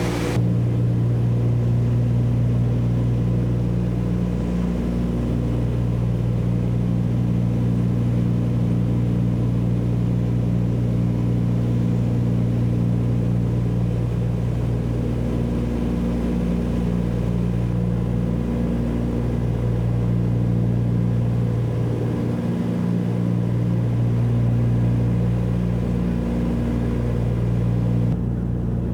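Cabin drone of a DC-3's twin radial piston engines and propellers in steady cruise, a deep even hum with a slow wavering every few seconds.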